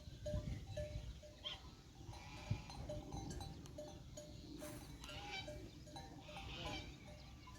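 A flock of sheep and goats bleating, with a short note repeating about three times a second underneath.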